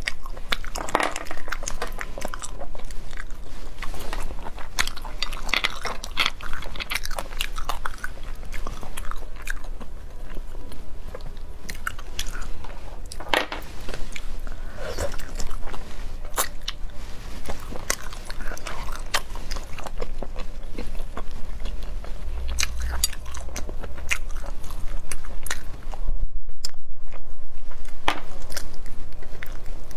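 Close-up eating sounds of spicy sea snails: chewing and wet mouth noises with many short sharp clicks as the meat is picked out and bitten. A low rumble swells near the end.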